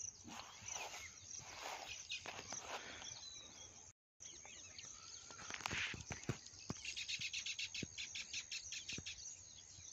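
Small birds chirping and twittering. About seven seconds in, a fast, even run of chirps starts and lasts a couple of seconds.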